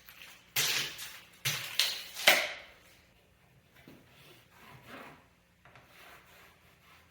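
Wooden boards being handled on a work surface: three loud scraping knocks in quick succession about half a second to two and a half seconds in, then softer sliding and rubbing of wood.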